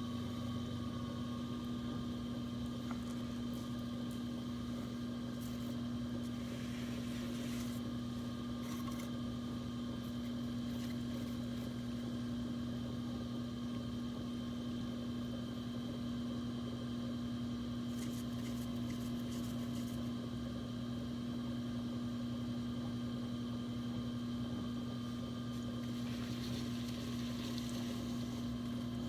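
Electric potter's wheel running at a steady speed, its motor giving an even, unbroken hum.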